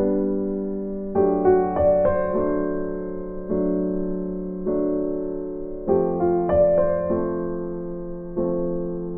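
Background music: an electric piano playing slow sustained chords, with a few quick notes over them about a second in and again near six seconds in.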